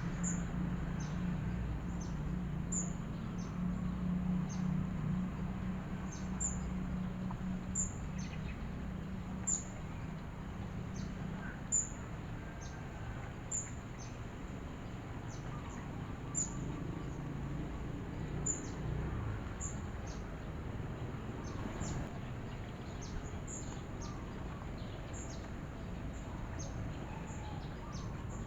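Wild birds singing: a short, very high-pitched chirp repeated about every second or two, over a low steady rumble that eases after the first ten seconds or so.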